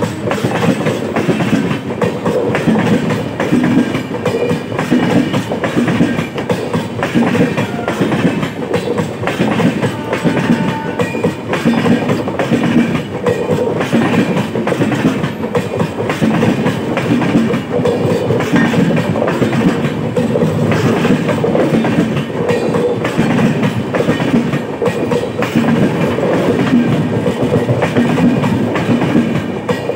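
Passing train of LHB passenger coaches rolling by at speed: a loud, steady rumble with a continual clatter of wheels over the rail joints.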